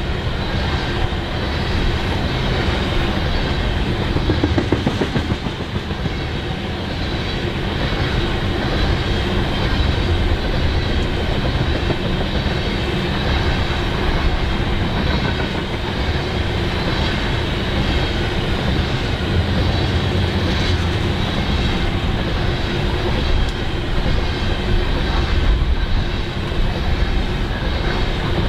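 Freight train cars rolling past steadily: continuous noise of steel wheels on rail.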